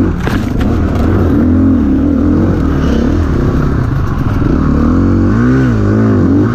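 KTM EXC-F 350 single-cylinder four-stroke dirt-bike engine under load on a muddy climb, its revs rising and falling with the throttle, with a few quick blips near the end.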